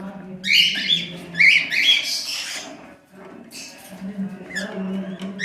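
Young lutino cockatiel's harsh, raspy squawking calls: a loud run of calls in the first two and a half seconds, then softer ones.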